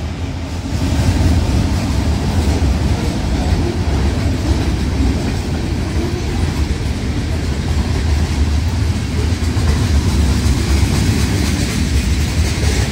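A train rolling past: a steady, continuous rumble of wheels on rail.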